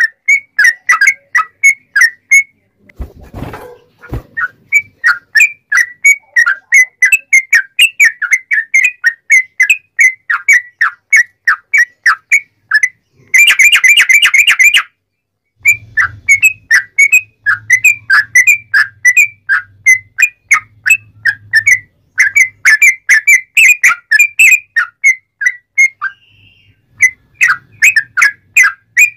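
Yellow-vented bulbul (trucukan) singing a fast run of short, loud, falling chirps, several a second. About halfway through it breaks into a rapid rattling trill for a second or so.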